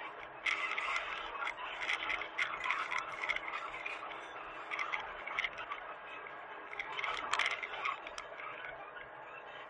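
Hitachi mini excavator at work: irregular clattering and scraping, with dense bursts in the first few seconds and again later, over a faint steady hum.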